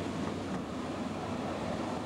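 Deutsche Bahn ICE high-speed train rolling steadily past along the platform, a continuous noise of wheels and running gear on the rails.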